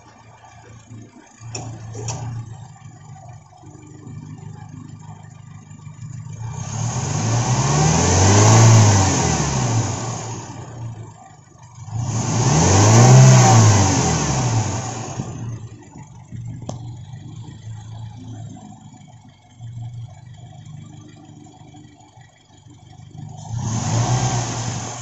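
Toyota Innova's 1TR four-cylinder petrol engine idling and revved twice, each rev rising and falling in pitch over a few seconds, with a third rev starting near the end. The engine is running under a check for a reported misfire.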